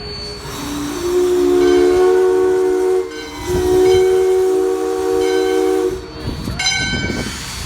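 Steam locomotive chime whistle sounding two long blasts, each a chord of several steady tones, followed near the end by a short, higher-pitched whistle toot.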